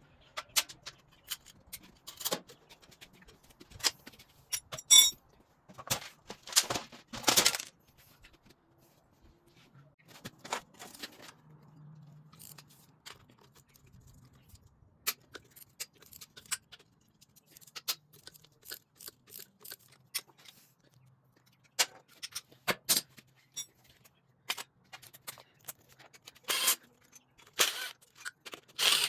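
Scattered metallic clinks, knocks and short scrapes of hand tools and loose parts while a Harley-Davidson Sportster engine is being taken apart, with louder bursts of clattering about five to eight seconds in and again near the end.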